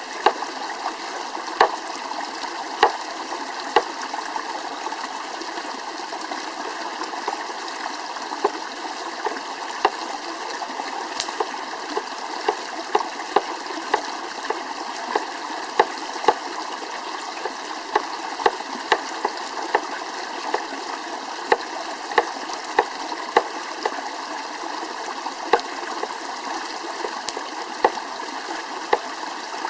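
Wood campfire crackling: a steady hiss with frequent, irregular sharp pops.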